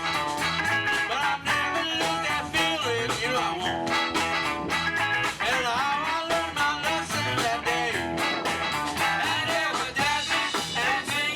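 A band playing, with electric guitar and a singing voice over a steady beat.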